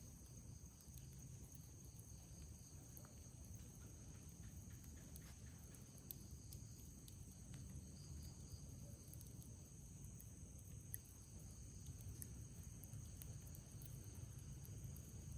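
Faint night insects, crickets among them, chirring steadily in a high pitch over a low background rumble, with a few faint crackles from a campfire scattered through.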